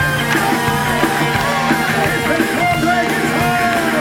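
Live rock and roll band, with an electric guitar playing a solo of bent, sliding notes over the band.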